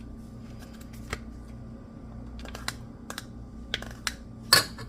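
Light kitchen handling: scattered clicks and taps as containers and utensils are moved, with one sharper knock near the end, over a steady low hum.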